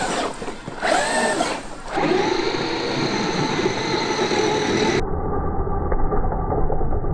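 Traxxas X-Maxx RC truck's brushless electric motor and gearing whining as it drives, the pitch rising and falling with the throttle, then running steadier. The sound changes abruptly twice.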